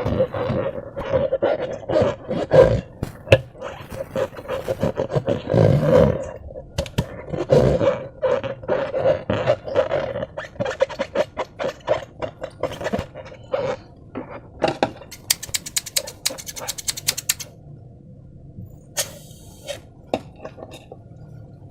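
Slime being squeezed and worked by hand, with wet squelching, sticky crackling and many small clicks. A fast run of clicks comes about two-thirds of the way through, and the handling grows quieter near the end.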